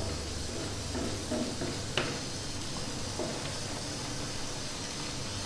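Ground tomato masala sizzling softly in ghee in a kadhai while it is fried and stirred with a wooden spatula, with a few light scrapes and a sharper knock of the spatula about two seconds in.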